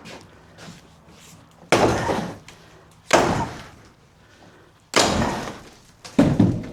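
Four heavy bangs at a doorway, about a second and a half apart, each dying away over roughly a second: blows to open up the door opening during demolition.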